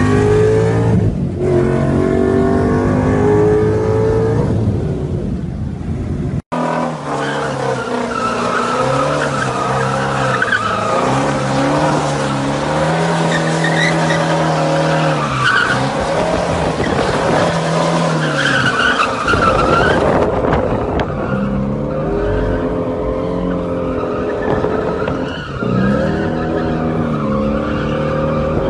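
Ford Mustang engines revving hard and climbing through the gears, with tire squeal. The sound breaks off abruptly about six seconds in and changes again around twenty seconds in.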